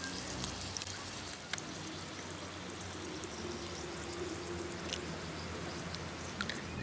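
Breakfast frying in a pan over a campfire: a steady sizzle with a few sharp crackles scattered through it.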